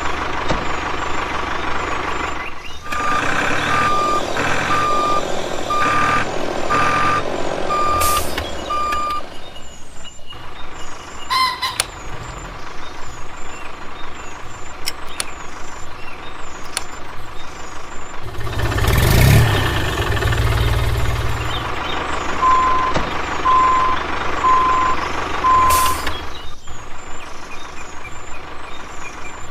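Vehicle engine running steadily with a reversing alarm: a run of about seven evenly spaced beeps a few seconds in, and four slightly lower beeps near the end. About two-thirds through there is a louder low rumble with a hiss.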